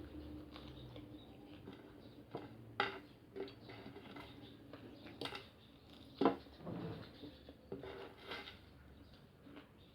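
Eating sounds from a mukbang of french fries and fried siomai: cutlery clinking and scraping on a plate in scattered sharp clicks, the loudest about six seconds in, with soft chewing between.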